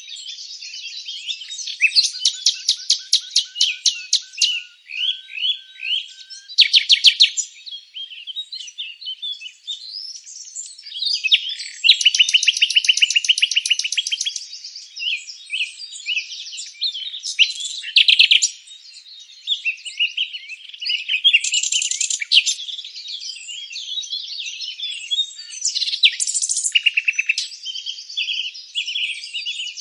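Songbirds singing together: overlapping chirps and rapid trills from several birds at once, in rising and falling bouts.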